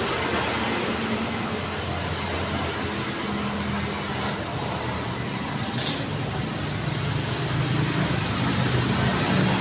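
Steady road traffic: tyre and engine noise from passing cars, with a low engine hum that swells and fades. A brief sharp sound cuts through about six seconds in.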